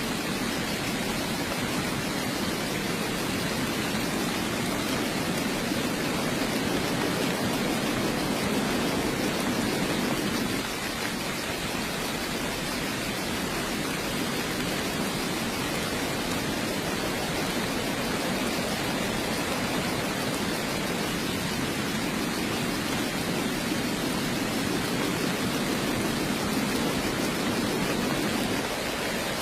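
Steady heavy rain: a dense, even hiss of falling water, with a low rushing layer that eases about ten seconds in and builds back toward the end.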